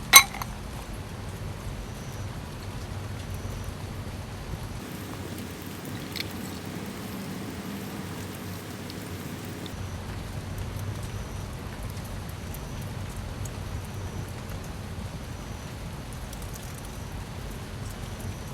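Steady rain falling, an even hiss of drops. There is a sharp click just at the start and a fainter one about six seconds in.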